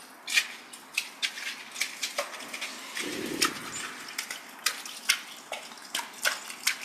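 Irregular soft clicks and ticks, a few a second, with a brief low sound about three seconds in.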